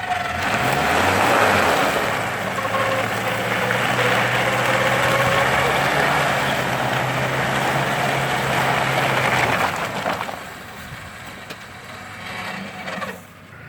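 An off-road vehicle working hard in mud: a motor held at one steady pitch, with a gritty wash over it, for about nine seconds, then dropping away suddenly.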